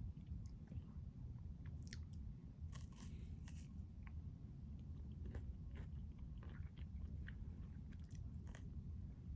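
Close-miked crunching and chewing of a chocolate crunch bar, with a run of crisp crunches about three seconds in, over a low steady hum.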